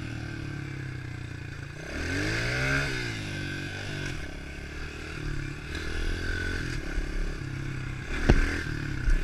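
110 cc pit bike's single-cylinder four-stroke engine running under riding, revving up and dropping back about two to three seconds in, then blipping unevenly. A sharp knock comes about eight seconds in and another near the end.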